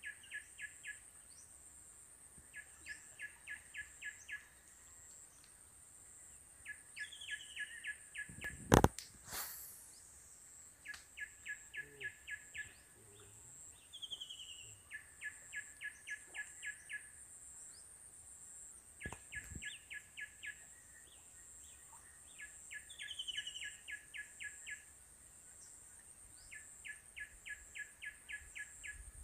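A bird calling over and over, about every four seconds: a short falling whistle followed by a quick run of about eight sharp notes, over a steady high-pitched insect drone. About nine seconds in comes a single sharp knock, the loudest sound, with a fainter click a little after nineteen seconds.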